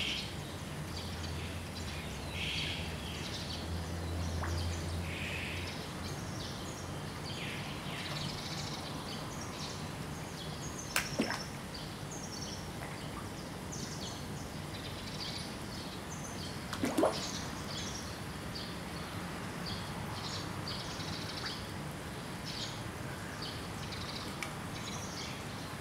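Outdoor pond ambience: birds chirping over and over above a low steady hum, with two short sharp sounds about eleven and seventeen seconds in.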